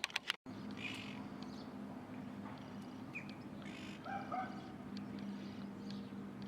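Several sharp clicks right at the start, then birds giving short scattered calls over a steady low hum.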